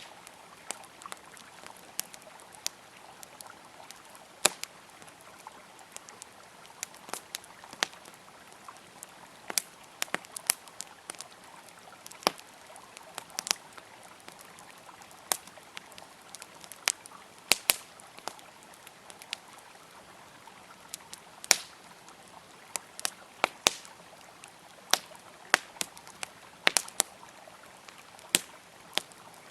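Campfire crackling, sharp irregular pops and snaps several times a second, over the steady rush of a flowing river.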